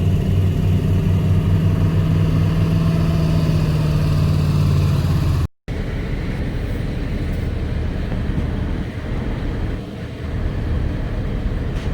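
Off-road vehicle engine running at a steady pitch, cut off abruptly about halfway through. It then runs on rougher and a little quieter, with a couple of brief dips in level.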